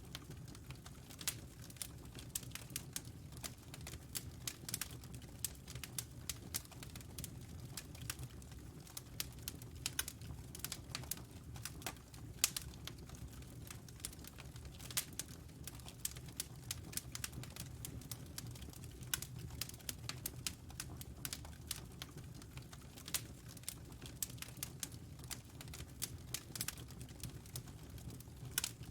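Wood fire burning in a fireplace, crackling with many irregular sharp pops and snaps over a low, steady rumble.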